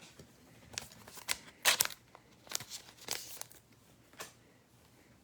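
Wrapper of a trading-card pack crinkling and tearing, in a quick cluster of sharp crackles that starts about a second in and is loudest a little before the two-second mark, followed by a single light tap.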